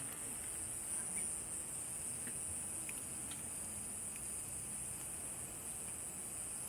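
Night insects chorusing in a steady, unbroken high-pitched drone, with a few faint pops from the campfire.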